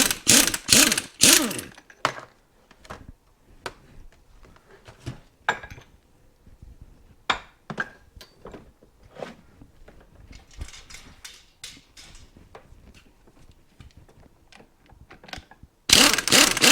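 Pneumatic impact wrench rattling in short loud bursts as it spins a bolt out of a motorcycle fork, left under spring pressure so the bolt breaks loose. It stops about two seconds in, leaving scattered clicks and knocks of parts being handled, then starts rattling again near the end.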